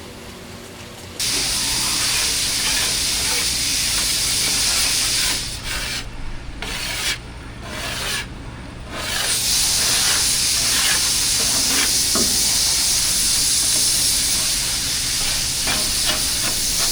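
High-pressure spray hissing steadily as a tank is cleaned. It starts about a second in and breaks off briefly three times in the middle.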